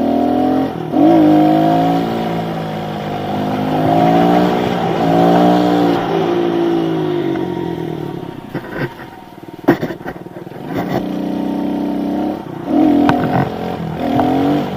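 Kawasaki KLX110 pit bike's small single-cylinder four-stroke engine revving up and down as the rider throttles on and off for a wheelie, the pitch climbing and dropping several times. About two-thirds of the way through it eases off, with a few sharp knocks, then revs up again near the end.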